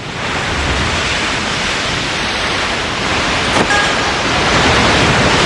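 Sound effect of a big ocean wave crashing and rushing in: a loud, steady hiss of surf.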